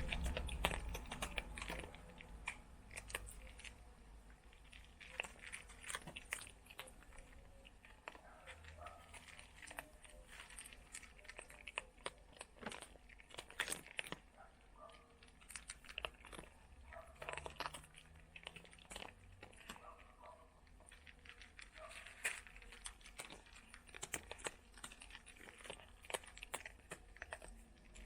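Cats with their heads in a bag, crunching food, the bag crinkling as they eat: a long run of small, irregular crunches and rustles.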